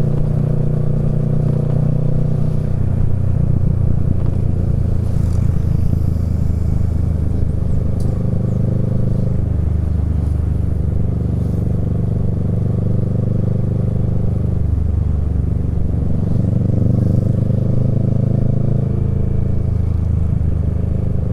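Kawasaki Z650 parallel-twin engine through a Yoshimura Alpha exhaust, running under way. The engine note changes pitch several times and climbs near the end.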